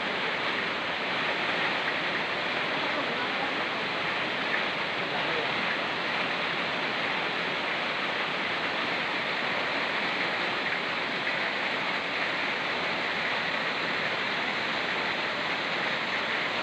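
Steady rushing of a fast-flowing mountain river mixed with falling rain: an even, unbroken water noise.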